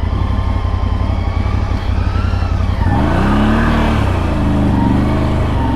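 CFMOTO CFORCE 1000 Overland ATV's V-twin engine running in low gear on a steep, rocky descent. About three seconds in, its note grows clearer and wavers up and down as the throttle changes.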